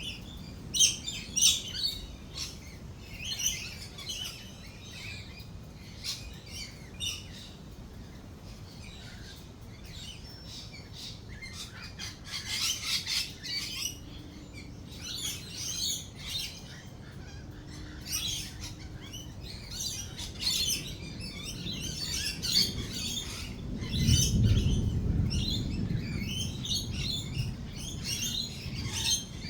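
A flock of lorikeets chattering and screeching with quick, overlapping high calls. About three-quarters of the way through, rolling thunder rumbles low for several seconds beneath the birds.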